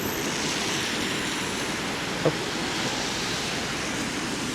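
Steady rushing wind and road noise from riding an e-bike in the rain, with one short click about two seconds in.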